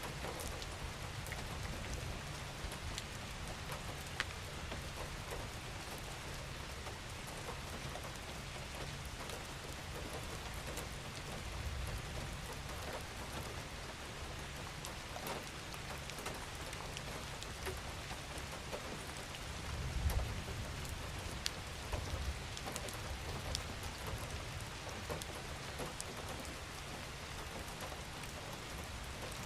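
Steady gentle rain falling on a surface, with scattered individual drops ticking sharply through the patter and a low rumble underneath that swells briefly about twenty seconds in.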